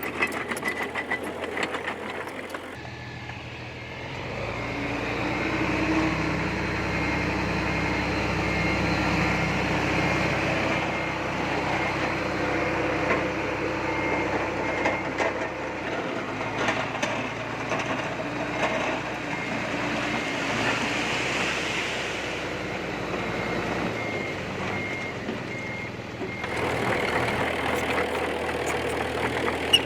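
Bulldozer's diesel engine running under load while earthmoving. In two stretches a reversing alarm beeps at an even pace.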